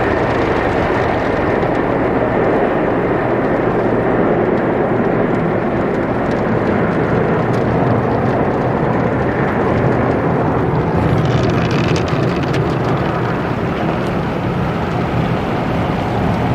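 D&S IQ soft-touch automatic car wash running over a car: a loud, steady wash of water spray and machinery noise, with a sharper hiss joining about eleven seconds in.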